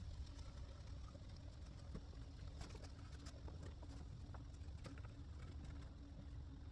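A restoration wipe being rubbed by hand over a yellowed plastic headlight lens: faint, scattered scuffs and ticks over a low rumble.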